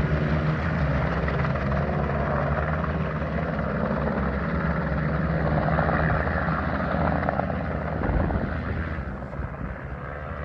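Escort helicopter flying past low, its rotor and engine sounding steadily, then fading about nine seconds in.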